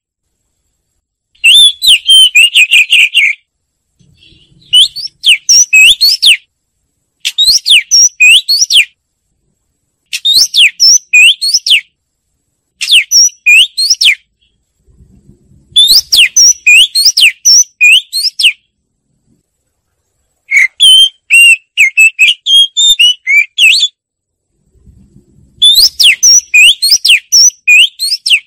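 Oriental magpie-robin singing: loud phrases of quick, varied whistled notes, each lasting a second and a half to three seconds, broken by short silent pauses, about eight phrases in all.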